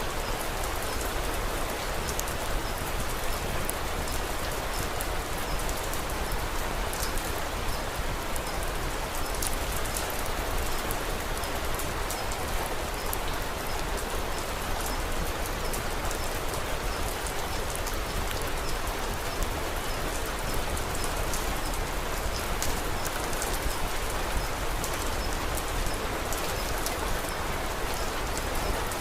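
Steady rain falling: a constant hiss with many small, quick drop taps scattered through it.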